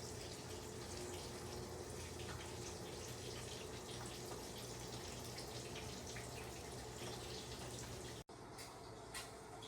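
Bacon sizzling and crackling in a frying pan, a steady hiss with small pops; it breaks off abruptly about eight seconds in and resumes with a slightly different sound.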